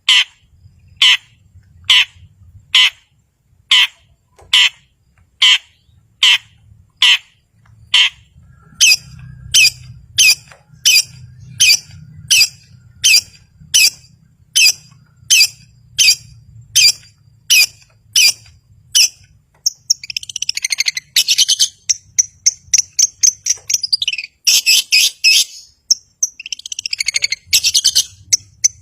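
Long-tailed shrike (cendet) singing: a string of short, sharp calls about one a second, quickening to about two a second, then breaking into dense rapid chattering about two-thirds of the way through.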